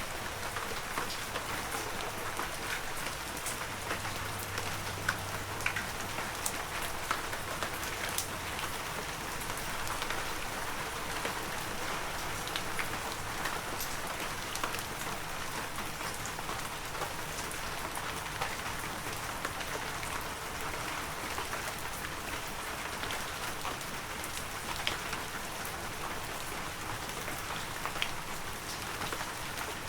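Heavy rain falling steadily, a dense hiss with many individual drops pattering sharply on nearby surfaces.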